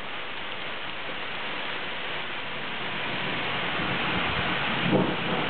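Steady hiss of heavy thunderstorm rain, slowly growing louder, with a rumble of thunder starting near the end.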